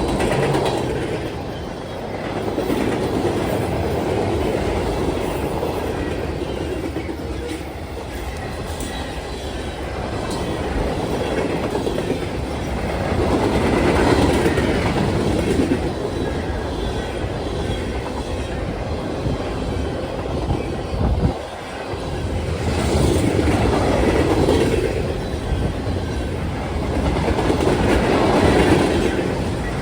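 Freight cars of a mixed freight train rolling past on the rails, a steady rumble that swells louder several times.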